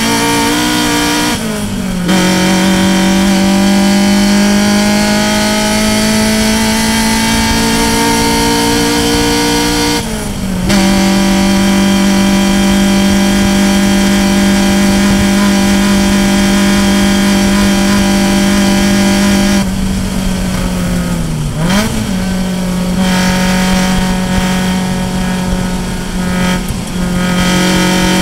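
Race car engine at high revs, heard from inside the cockpit, its pitch climbing slowly through the gears. It drops sharply at two upshifts, about two and ten seconds in. Around twenty seconds it lifts off and dips, then picks up again a gear lower and holds steady.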